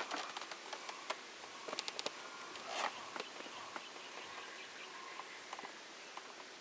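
Quiet outdoor ambience with scattered sharp clicks and crackles and one louder rustling crackle about three seconds in.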